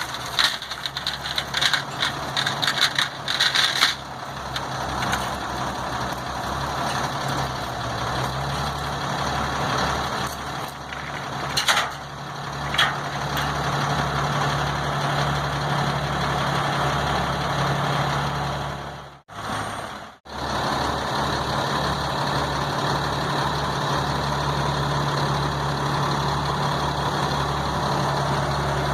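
A heavy truck's diesel engine running steadily with a low drone, with rattling and clattering over it for the first few seconds. The sound drops out briefly twice about two-thirds of the way through.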